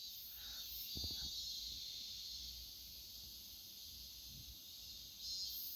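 Quiet room tone: a steady faint hiss, with a brief soft thump about a second in.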